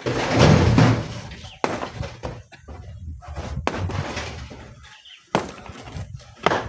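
Rocks crashing and knocking together: a loud clattering crash of tumbling rock in the first second, then sharp single knocks about every two seconds.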